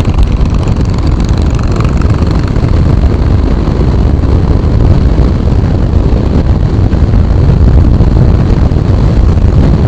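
Motorcycle on the move on an open road: loud, steady rumble of wind buffeting the microphone mixed with the engine running.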